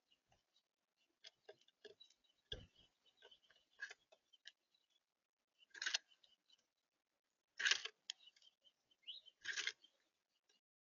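Small birds at a seed feeder: scattered light taps and scratches of pecking and hopping, with three louder short rustling flurries, like wings, and one short rising chirp near the end.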